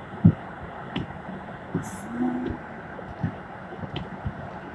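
Heavy storm rain on a moving car, heard from inside the cabin as a steady hiss with road and engine noise, broken by irregular dull thuds about once a second.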